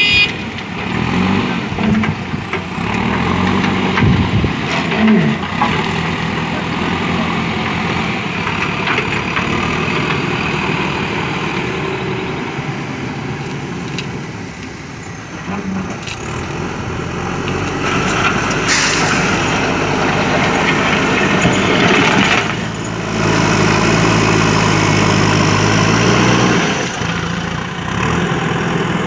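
Diesel engine of a JCB 3DX backhoe loader running as it works, its revs rising and falling, with a louder stretch about three-quarters of the way through.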